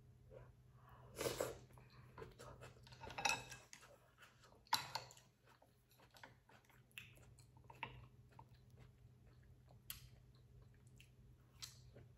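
A person chewing and eating soft tofu stew, with three louder mouth sounds about one, three and five seconds in, then fainter smacks and clicks.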